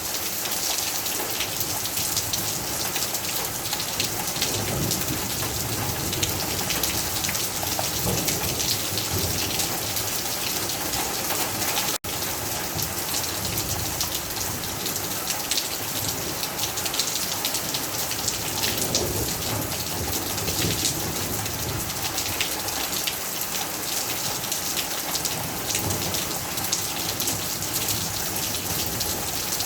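Steady heavy rain with dense, fine drop patter on surfaces, under low rumbles of distant thunder that swell and fade several times. The sound cuts out for an instant about twelve seconds in.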